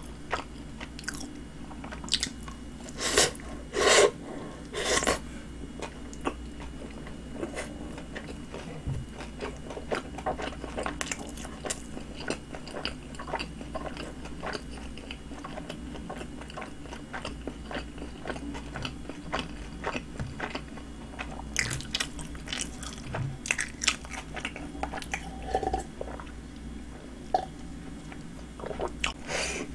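A person chewing and biting a Subway flatbread sandwich: irregular mouth clicks and crunches, with several louder bites a few seconds in and again after about twenty seconds.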